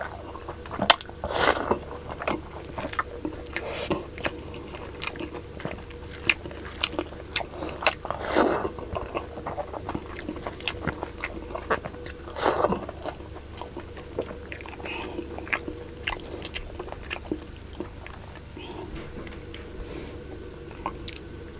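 Close-up eating sounds: a person chewing and biting pork and rice with frequent wet smacks and small crunches, and a few louder slurpy bursts about 1.5, 8.5 and 12.5 seconds in, over a steady low hum.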